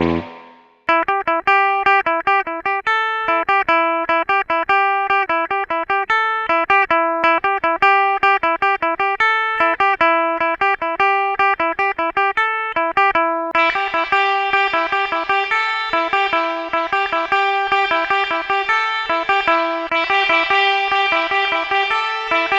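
Electric guitar, a Squier Vintage Modified Jazzmaster, playing a fast single-note lick through an Electro-Harmonix Oceans 11 pedal in its spring reverb mode. The lick starts just under a second in and repeats, and about two-thirds of the way through the tone turns brighter and fuller as the setting is changed.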